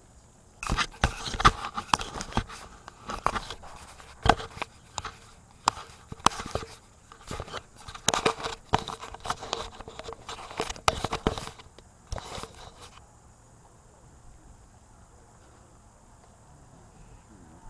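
Irregular clicks, knocks and scrapes of things being handled close to the microphone, running for about twelve seconds and then stopping, leaving a faint steady background.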